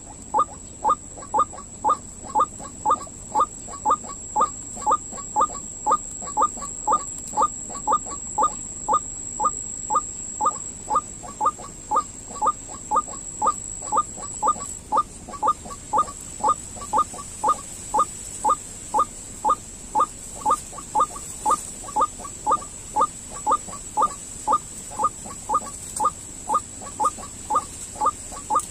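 White-breasted waterhen calling, a long unbroken series of short upward-sweeping notes repeated evenly a little over twice a second. A faint steady high whine runs behind it.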